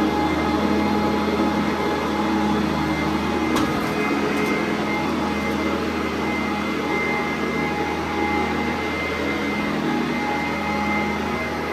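Sanitaire SC899 commercial upright vacuum cleaner running steadily, a constant motor drone with a steady whine over it.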